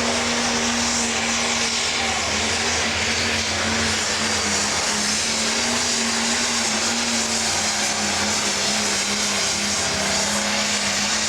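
Turbocharged diesel engine of a 10,000 lb pro stock pulling tractor running hard at a steady high pitch, with a high turbo hiss over it.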